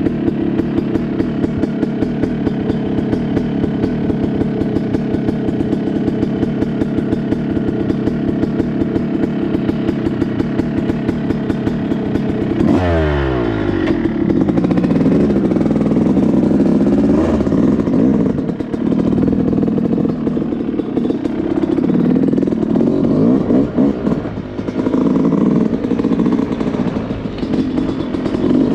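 Yamaha YZ250 two-stroke dirtbike engine running steadily, then revving up sharply about thirteen seconds in and running on with the pitch rising and falling as the throttle is worked.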